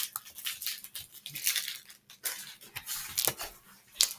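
Irregular rustling and crinkling of things being handled and moved about, with a few sharp clicks, one near the end.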